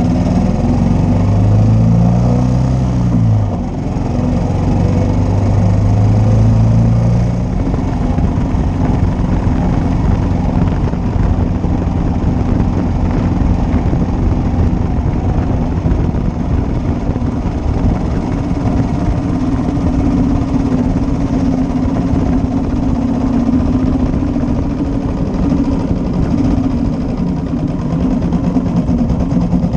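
1941 Matchless G3L's single-cylinder four-stroke engine running while being ridden. Its pitch rises over the first couple of seconds, dips briefly a few seconds in as for a gear change, then holds steady. After about seven seconds it settles into an even, rough running note.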